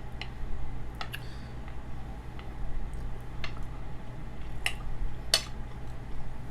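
Cutlery clicking against a plate while eating, about five separate sharp clicks spread over several seconds, the loudest a little after five seconds in, over a steady low hum.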